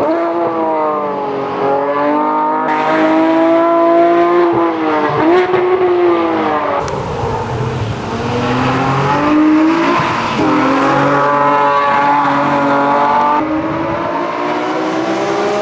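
Nissan 370Z NISMO's 3.7-litre V6 running hard through PPE long-tube headers and an X-pipe. Its pitch climbs and drops again and again as it is driven on track, with a few abrupt jumps in the sound.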